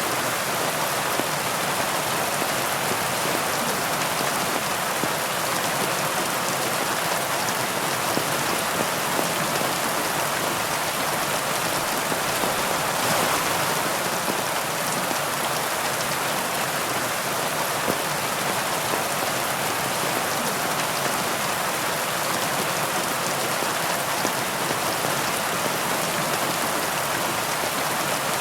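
Heavy rain falling steadily, a dense even hiss of many drops with no breaks.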